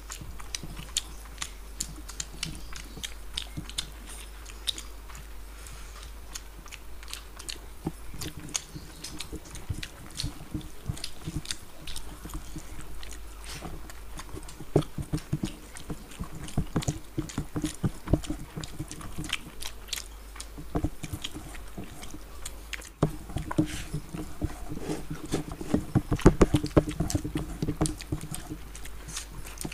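Two people eating rice and curry with their hands close to a table microphone: wet chewing and lip-smacking, many small irregular clicks, busiest in the second half.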